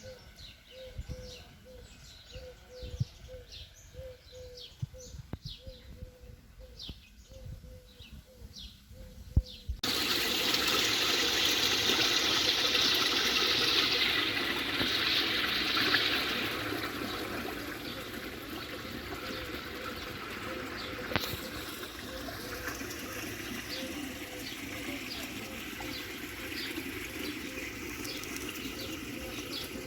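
Small birds chirping against a quiet background. About ten seconds in, the sound switches abruptly to steady running water, with bird chirps continuing over it.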